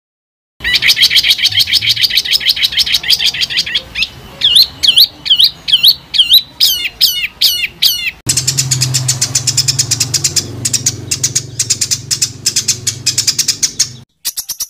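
Songbird song cut together as a bird-training recording: a few seconds of a fast, dense trill, then a run of quick looping whistled notes about three a second, then a cut to rapid, harsh chattering over a low hum.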